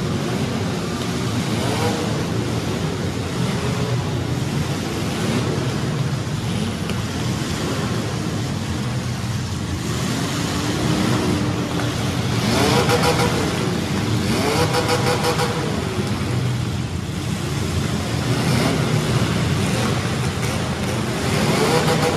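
Compact demolition derby cars' engines running together in a steady rumble, with engines revving up and back down several times, most clearly around the middle and near the end.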